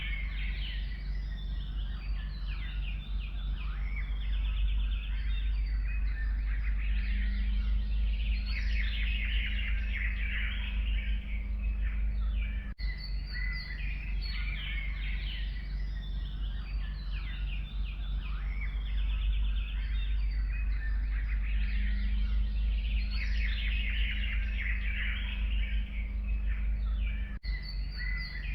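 Many songbirds singing and chirping together in a forest dawn-chorus style, over a steady low rumble. The same stretch repeats every fifteen seconds or so, with a brief dropout at each repeat.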